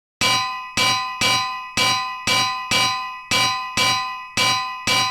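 Hammer blows on an anvil: ten evenly spaced strikes, about two a second, each ringing on with a bright bell-like metallic tone. The last ring dies away about half a second after the final blow.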